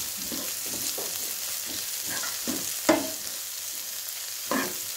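Chopped onions, curry leaves and green chillies frying in hot oil in a pan with a steady sizzle, stirred with a few scrapes and knocks of the spoon against the pan, one louder about three seconds in.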